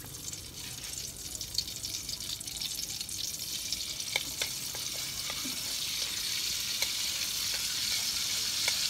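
Oil sizzling in a steel wok as small pieces of garlic fry, the hiss getting louder over the last few seconds. A metal spoon stirring gives a few light clicks against the wok.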